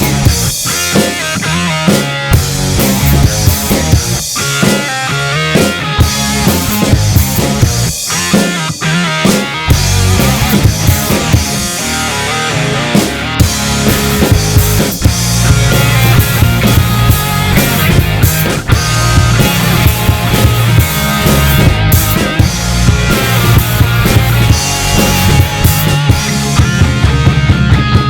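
Instrumental rock music: a full drum kit and guitars playing with no vocals, the bass and drums filling out more heavily about ten seconds in.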